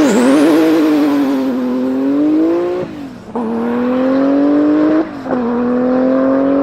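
Tuned Porsche 993 GT2's twin-turbo 3.6-litre flat-six accelerating hard at full throttle. The engine note climbs steadily, drops sharply at an upshift about three seconds in and again about five seconds in, then climbs once more.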